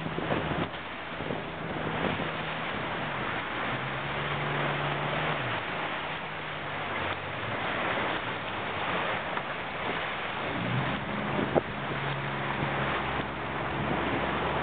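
Wind buffeting the microphone and water rushing past a boat under way, over a steady low motor hum that shifts in pitch a few times. A single sharp click comes late on.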